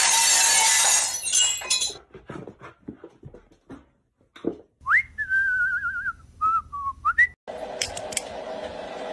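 A loud, noisy burst fades over the first two seconds, followed by a few light clicks. Then a golden retriever puppy whines for about two seconds: one high, wavering whine that rises at its start and again at its end.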